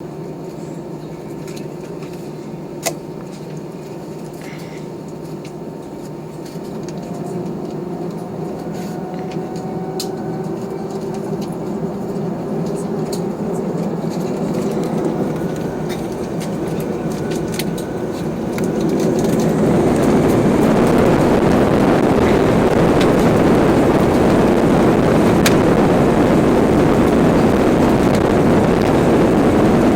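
Cabin noise of an Airbus A320-216 with CFM56-5B engines spooling up for takeoff. A faint rising whine builds at first, and about two-thirds of the way through the sound jumps to a loud, steady roar as the engines reach takeoff thrust.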